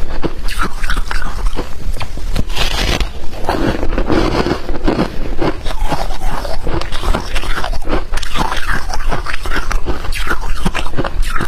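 Someone biting and chewing freezer frost and ice: a dense, continuous run of crunches with no pause.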